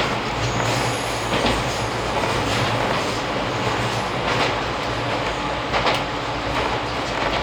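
Izuhakone Railway 3000 series electric train running, heard from inside the car: a steady rumble of wheels on rail, with a few sharp clacks as the wheels pass rail joints, two close together near the end.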